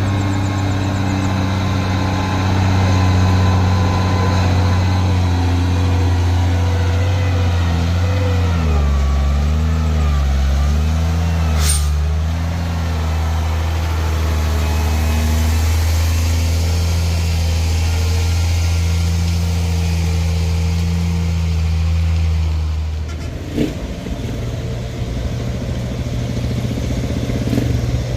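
Heavy truck diesel engine running loud and steady. About a third of the way in, its note wavers up and down for a few seconds. There is a single sharp click a little later, and the engine note changes near the end.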